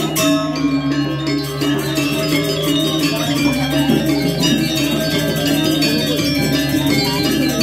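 Balinese gamelan ensemble playing: many bronze metallophone and bell-like notes ringing in a dense, continuous texture over a steady low tone.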